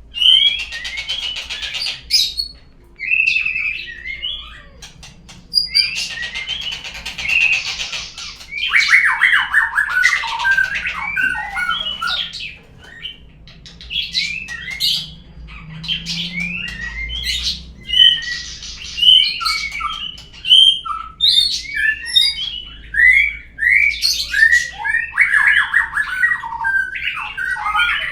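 Murai (white-rumped shama) song played as a lure to set a bird singing: a rapid, varied run of whistles and chirps, broken by harsh buzzy rattles.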